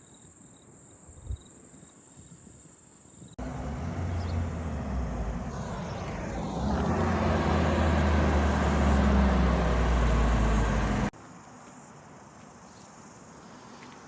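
A car driving, its engine and road noise a loud low rumble with a steady hum, growing louder about halfway through and cutting off abruptly. Before and after it come quieter outdoor sound, with a thin steady high-pitched tone at the start.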